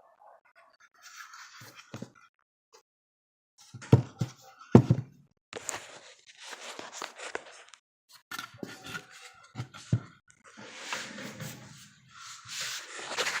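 Knocks and scraping from hand work with tools and parts, with two loud knocks about four and five seconds in and longer stretches of scraping between them.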